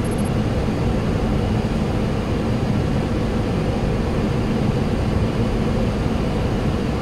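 Steady cockpit noise of a Boeing 737-800 on short final approach: a constant rush of airflow around the flight deck with a low engine hum underneath.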